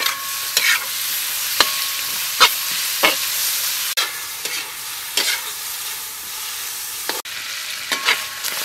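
Squid frying in hot oil in a wok with shallots and garlic, sizzling steadily, while a metal spatula scrapes and knocks against the wok about once a second.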